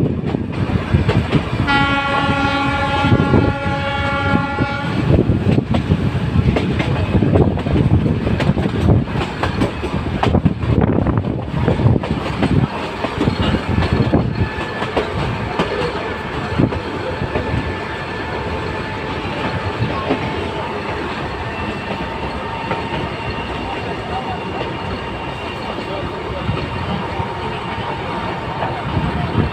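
A metre-gauge Nilgiri Mountain Railway train running, with a continuous rumble and clickety-clack of the wheels. Its horn sounds once, about two seconds in, for about three seconds.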